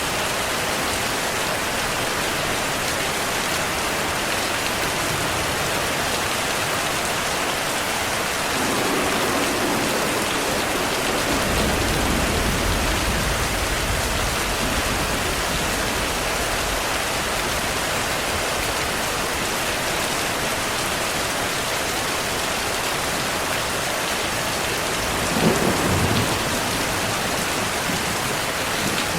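Steady heavy rain, with a low rumble of thunder lasting a few seconds starting about twelve seconds in, and a sharper, louder thunderclap near the end.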